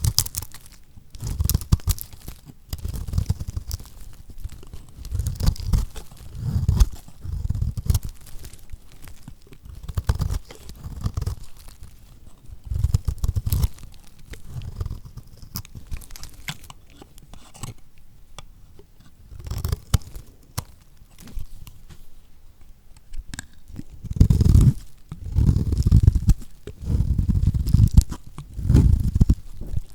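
Knife cutting through lacquered soap: crisp crackling crunches with a low thud under each stroke, coming in irregular bursts every second or two. The crunches are heavier near the end.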